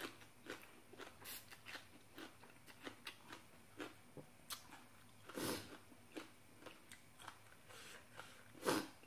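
A person chewing a mouthful of spicy papaya salad with rice noodles, heard close up as a string of short chewing and mouth clicks. There is a louder sound about halfway through and another near the end.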